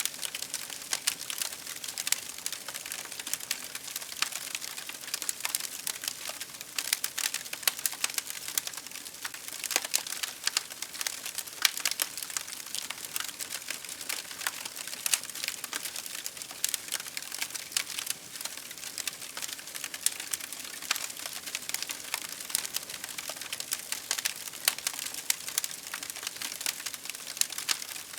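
Wood fire crackling: a continuous stream of small, irregular pops and snaps, some sharper than others, with no break.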